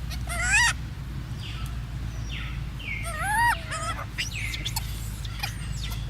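Monkey giving short, high-pitched squealing cries that bend up and down, the loudest about half a second in and again around three seconds in, over a steady low hum.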